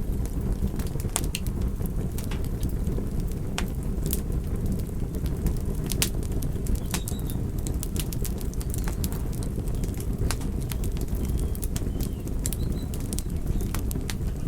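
Fire crackling: a steady low rumble with scattered sharp pops and snaps.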